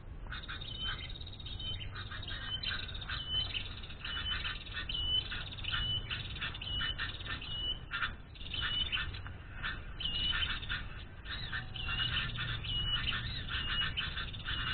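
Small birds chirping rapidly and continuously, with a short high note repeated about twice a second over a denser twittering.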